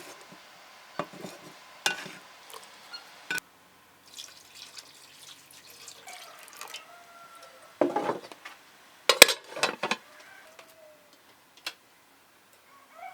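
Dishes and utensils clinking and knocking in separate strikes, busiest about eight to ten seconds in, with a few faint bird calls.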